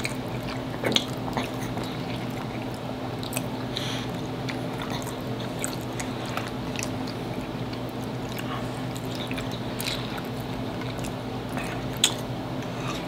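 Close-miked chewing of a soft, cheesy hamburger-macaroni casserole by two people, with scattered short clicks and a steady low hum underneath.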